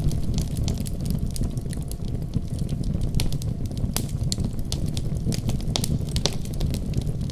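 Wood fire crackling: a steady low rumble of burning with frequent sharp pops and snaps at irregular intervals.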